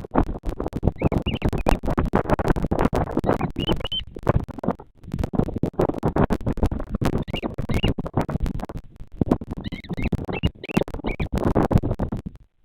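Loud, dense crackling and scratching rustle at a bearded vulture nest microphone, broken by a few short pauses. Short high bird calls that bend up and down come in several small groups over it.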